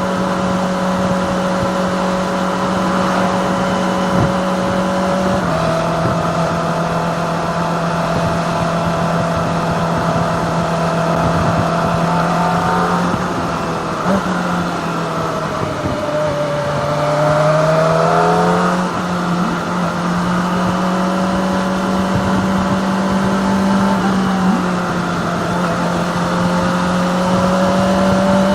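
Kawasaki ZX-25R's 250cc inline-four engine running at steady cruising revs. Its pitch drops a few seconds in, sags a little past the middle, then rises again as it accelerates, before settling back to a steady note.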